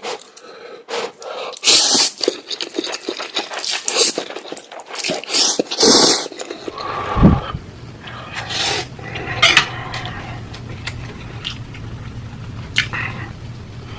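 Close-miked eating of spicy ghost pepper noodles: loud slurps and heavy, panting breaths, with cutlery scraping. About six and a half seconds in, a steady low hum comes in under quieter, sparser eating sounds.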